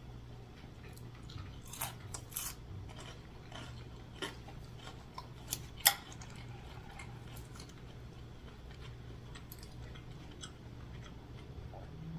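Close-up chewing and biting of fast food (onion rings and a Big Mac), with scattered crisp crunches and mouth clicks, the loudest about two and six seconds in, thinning out in the second half, over a steady low hum.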